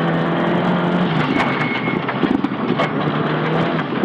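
Nissan Silvia S15 rally car's engine running hard at steady revs, heard from inside the cabin. The steady engine note breaks up about a second in and again near the end, with short knocks scattered through it.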